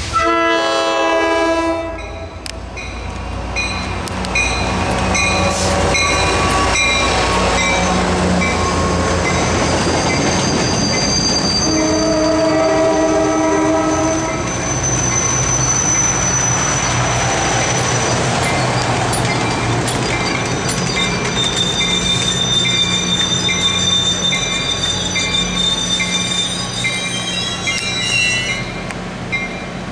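MARC commuter train sounding its horn twice, about 12 seconds apart, then its passenger cars passing with a loud steady rumble, wheels clacking on the rail joints and high squealing from the wheels.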